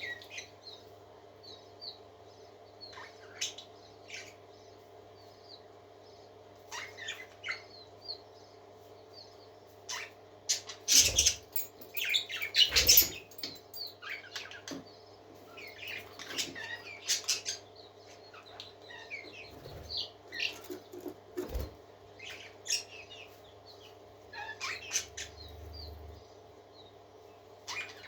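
Pet parakeets chirping and chattering in short, scattered calls, with a louder, busier flurry about 11 to 13 seconds in. A steady low hum runs underneath.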